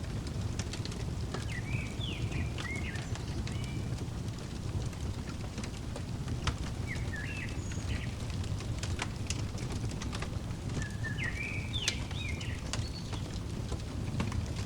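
Fireplace crackling, with scattered pops over a steady low rumble, while a songbird sings three short chirping phrases spread through.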